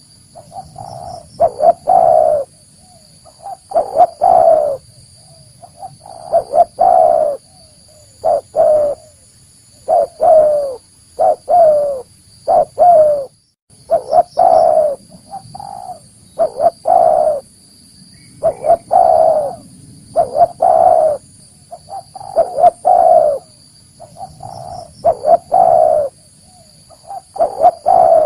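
Spotted dove cooing its lure call: a phrase of several deep coos repeated every two to three seconds. A faint, steady high-pitched tone sits behind the calls.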